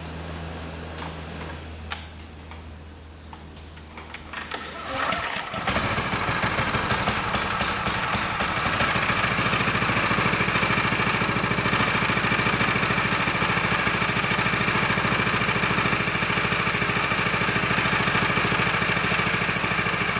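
Small engine of a Kubota TRS6000 mini cultivator starting about five seconds in, then running steadily with a fast, even beat.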